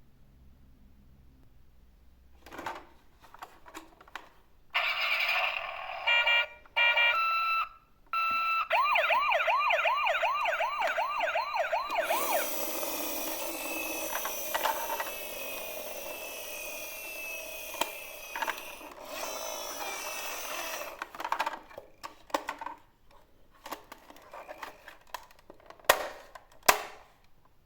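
A toy vehicle's electronic sound gimmick playing from a small speaker: a short beeping sequence of stepped tones, then a fast warbling siren, then a longer, harsher electronic sound. Scattered clicks and knocks of handling the plastic toy follow near the end.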